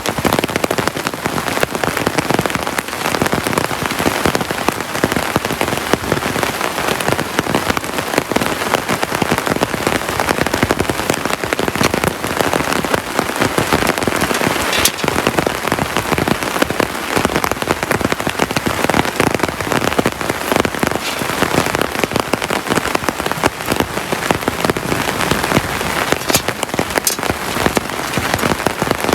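Heavy rain falling steadily, thick with individual drop impacts, with a single sharper click about halfway through.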